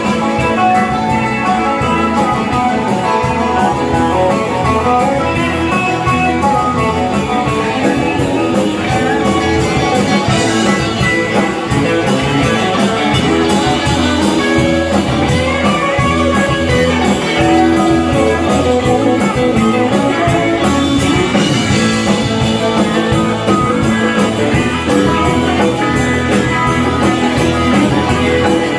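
A country band playing a song: guitars over a steady drum beat.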